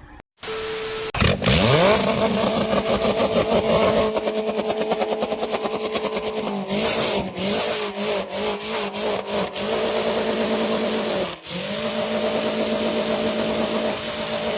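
A motor speeds up about a second in and then runs fast and steady. Its pitch wavers for a few seconds in the middle, over a run of rapid clicks. It cuts out for a moment near the end and picks straight back up.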